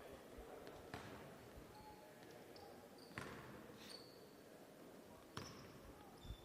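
Faint basketball bounces on a hardwood gym floor, four single thuds a second or two apart, with a few brief high squeaks.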